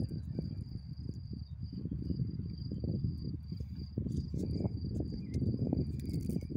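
A cricket trilling steadily at a high pitch, over a louder, uneven low rumble of noise close to the microphone.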